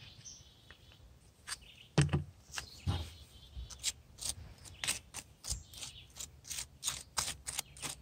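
A bird chirping in short, sharp repeated notes, about three or four a second over the second half, with two short handling noises about two and three seconds in.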